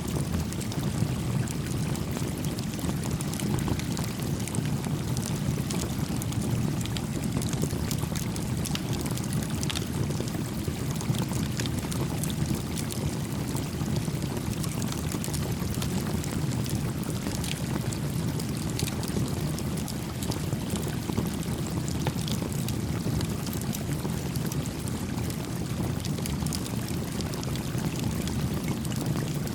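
Steady rush of a flowing stream, with scattered small crackles and pops from a campfire.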